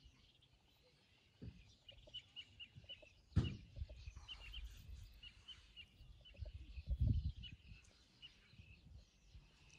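Small birds chirping in quick runs of short high notes, with two low thumps, one about a third of the way in and one about two-thirds in.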